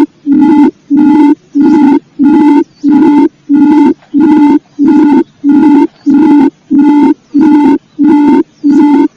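Recorded lure call of the rice-field quail (puyuh sawah): a loud, low, hooting note about half a second long, repeated at an even pace a little more than once a second.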